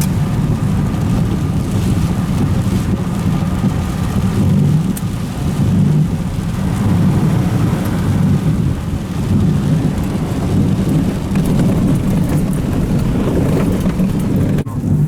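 Vehicle driving in heavy rain: a steady, loud low rumble of engine and road noise, with rain noise over it.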